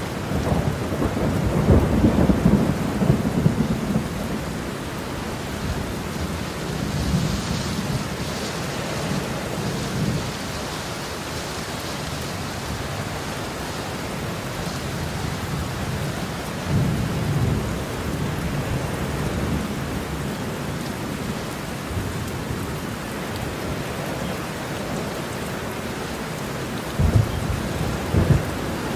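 Heavy rain falling steadily with rolls of thunder: a long low rumble in the first few seconds is the loudest, further rumbles come and go through the middle, and two short, sharper claps sound near the end.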